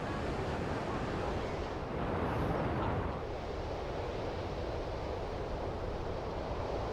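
Sea surf washing steadily, swelling slightly about two seconds in.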